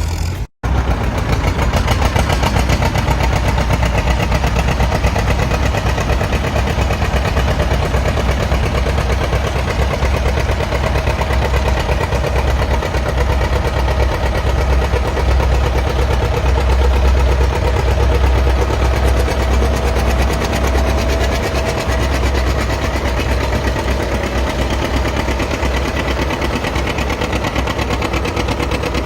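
Antique farm tractor engine running loud and steady, with rapid, even exhaust beats. The sound drops out for an instant about half a second in.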